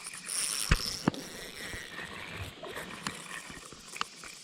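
Sharp clicks and knocks over a rustling hiss: fishing rod and reel being worked while a small bluegill is reeled in.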